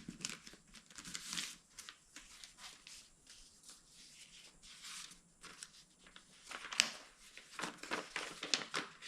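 Irregular rustling, crinkling and tearing of packaging as a cardboard shipping box is opened and its contents handled, with a louder cluster of crackles near the end.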